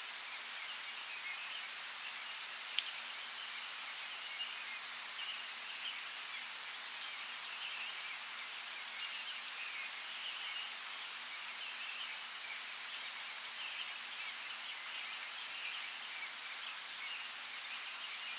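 Steady rain falling, with a few louder single drops striking close by and birds chirping faintly and repeatedly through it.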